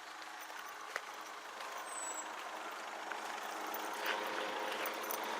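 Steady running of a diesel train, with a single click about a second in.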